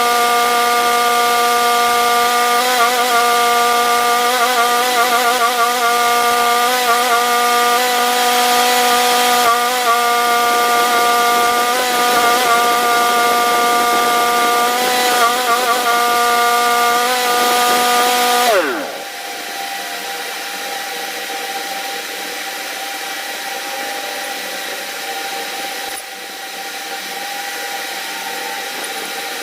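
A motor-driven power tool running at a steady pitch, then switched off about two-thirds of the way through, its pitch falling quickly as it spins down. Quieter rubbing and tool-handling sounds follow.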